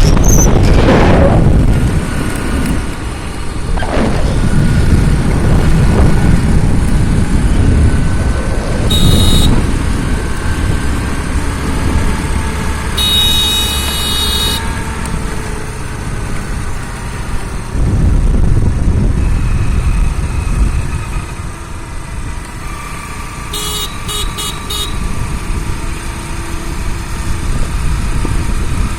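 Low rumble of a moving vehicle on the road, with vehicle horns sounding over it: a short honk about nine seconds in, a longer one around thirteen to fourteen seconds, and several quick toots near twenty-four seconds.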